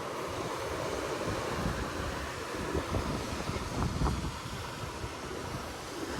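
Wind rumbling on the microphone over a steady wash of ocean surf.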